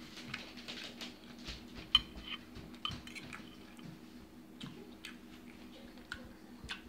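Close-up chewing of food, with scattered sharp clicks of a metal fork against a serving platter; the loudest click comes about two seconds in.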